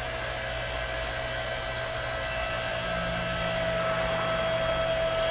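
The electric motor and hydraulic pump of an 8-ton horizontal log splitter run steadily with a constant whine while the ram extends under the control lever. A lower tone joins about halfway through, and the sound grows slightly louder toward the end.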